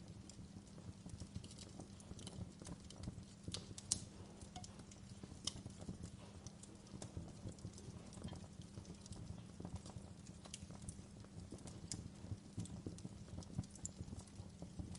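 Wood fire crackling in a fireplace: a steady low rumble of burning with many small crackles and occasional sharper pops, the loudest about four seconds in.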